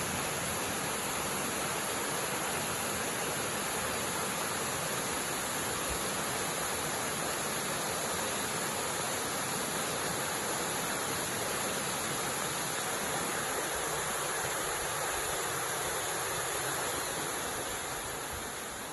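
Steady rushing of a 77-foot waterfall, water falling and splashing continuously, easing off slightly near the end.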